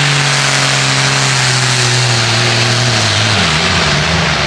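Pulling tractor's engine running loud and steady, then its pitch drops about three seconds in as it comes off full power.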